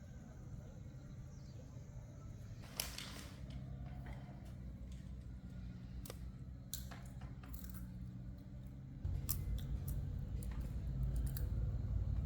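Scattered small clicks and clinks of hand tools being handled, over a steady low hum. A louder low rumble comes in about nine seconds in.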